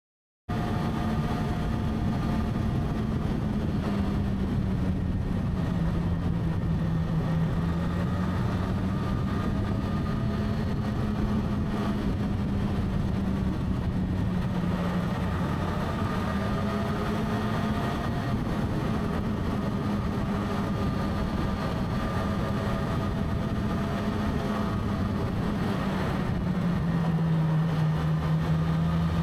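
A motorcycle engine running while riding, its low hum rising and falling slowly with speed over a steady rush of road and wind noise. It starts abruptly about half a second in.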